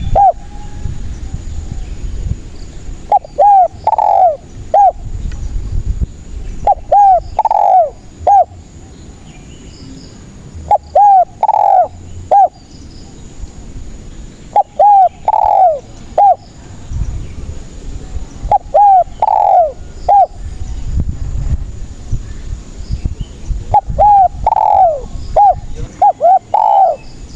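Spotted dove (tekukur) giving its cooing call about seven times, one phrase every three to four seconds. Each phrase is a few short coos around a longer, louder one. A low background rumble sits under the calls.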